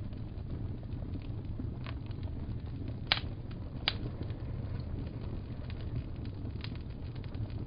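Wood fire in a fireplace crackling over a steady low rumble, with scattered small snaps and two louder pops about three and four seconds in.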